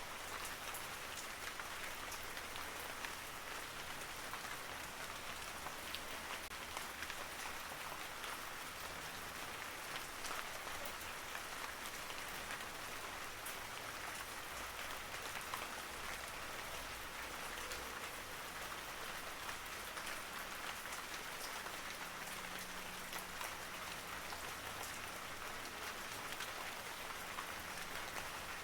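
Steady rain falling on a surface, a continuous hiss with many individual drops ticking and pattering throughout, and no thunder.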